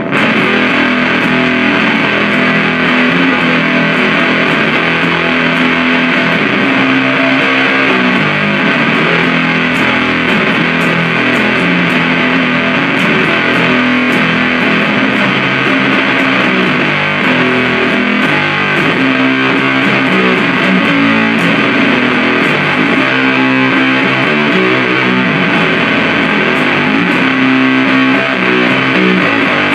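Continuous heavily fuzzed riffing played through a 77 Fuzz Blender, a Big Muff-style op-amp fuzz pedal, into an Orange Super Crush 100 amplifier: thick, saturated sustained notes that change pitch without a break.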